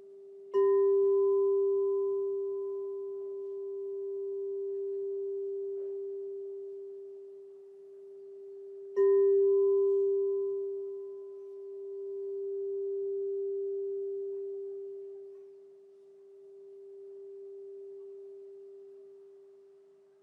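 Crystal singing bowl struck twice, about eight seconds apart, each strike ringing on as one long pure tone with faint higher overtones. The tone slowly swells and fades as it decays.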